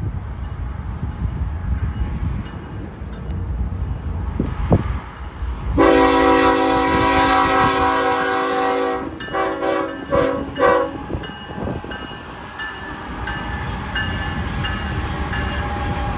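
BNSF diesel freight train running past with a steady low rumble; its locomotive horn sounds one long blast about six seconds in, then a string of short toots, the engineer giving a little extra.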